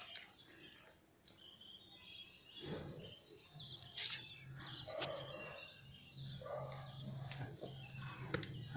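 Faint small-bird chirping, short high calls scattered throughout. A low steady hum comes in a few seconds in.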